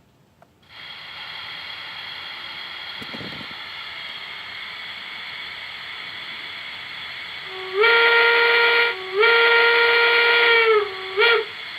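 Gauge 1 model BR 80 steam tank locomotive: a steady steam hiss starts under a second in. About two-thirds of the way through, its whistle blows twice long and once short, each blast sliding up in pitch as it begins and down as it ends.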